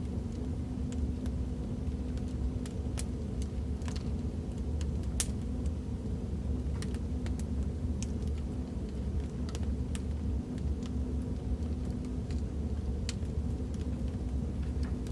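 Wood fire crackling: a steady low rumble of flames with irregular sharp pops and crackles, one louder pop about five seconds in.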